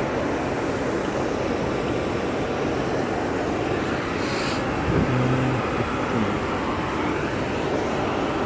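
Steady, fairly loud machine-like background noise, with a brief hiss about four seconds in.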